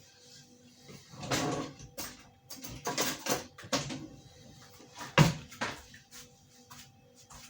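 Hard plastic car cowling being handled: irregular knocks, clacks and rustling scrapes, the loudest a sharp knock about five seconds in.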